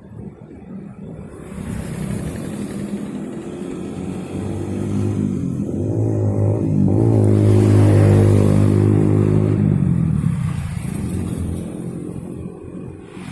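A small petrol engine running, growing louder to a peak about eight seconds in and then fading away.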